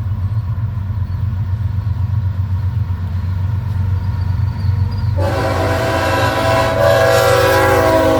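Low rumble of an approaching BNSF freight train led by ES44C4 diesel locomotives. About five seconds in, the lead locomotive's air horn sounds a loud chord of several notes in one long blast that is still sounding at the end.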